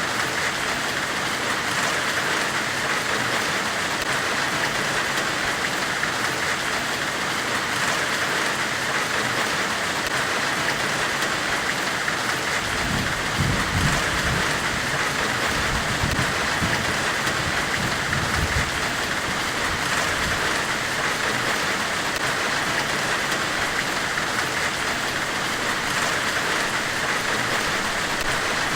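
Steady, even white-noise hiss of a forge-themed ambient track, densest in the upper middle range. About halfway through, a deep rumble swells for several seconds and fades.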